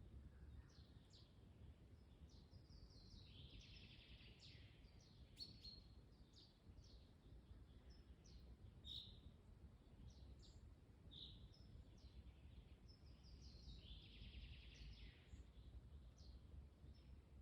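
Faint forest ambience: birds chirping again and again, with a longer song phrase twice, over a steady low rumble of wind.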